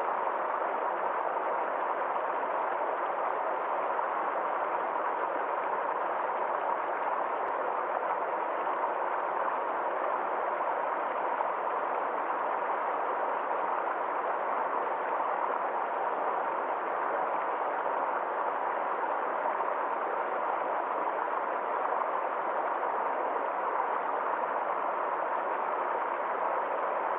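Water flowing steadily in a small forest stream, an even rushing with no breaks or changes.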